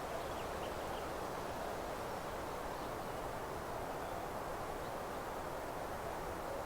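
Steady outdoor meadow ambience, an even rustling hiss like wind through grass and leaves, with a few faint, brief bird chirps near the start and about five seconds in.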